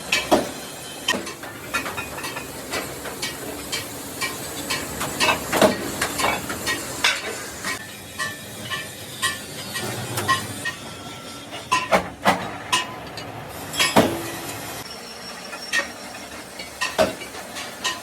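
Irregular metal clanks and hammer blows on steel sheet, some ringing briefly, over a steady workshop hiss; the heaviest blows fall about twelve and fourteen seconds in.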